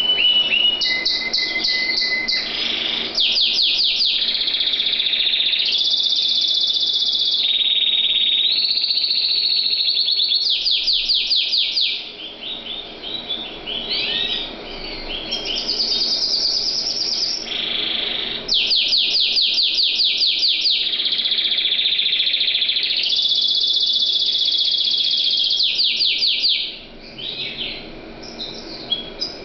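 Domestic canary singing a long song: fast rolls of rapidly repeated notes alternate with long held whistled notes, with a few short breaks and a quieter, more broken passage near the end.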